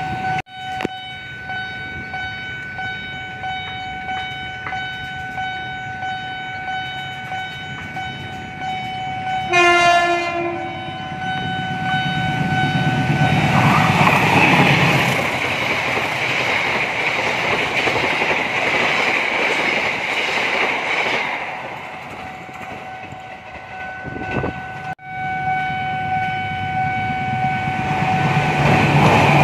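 Level-crossing warning signal sounding a steady high tone. About ten seconds in, a diesel locomotive sounds its horn once, then the train passes with a rush of engine and wheel noise and clickety-clack. After a cut, the crossing signal sounds again while another train approaches near the end.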